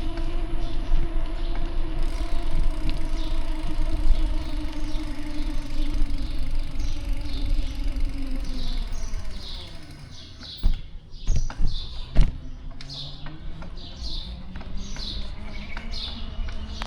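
Street traffic heard from a bicycle: a motor vehicle's engine runs close by with a low rumble, its tone dropping as it fades about nine seconds in. The street then goes quieter, with a few sharp knocks and a short high chirp repeating a little more than once a second.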